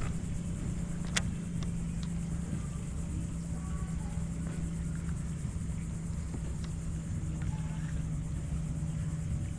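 A steady low motor hum over a low rumble, with a single sharp click about a second in.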